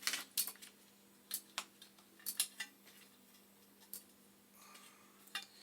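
Small metal parts of a boiler pilot-burner mounting bracket clinking and tapping as the bracket is handled and lined up, about eight sharp separate clicks. A faint steady hum runs underneath.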